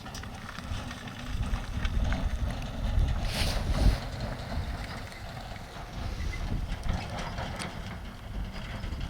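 Strong gusty wind buffeting the microphone, an uneven low rumble that surges louder about three to four seconds in.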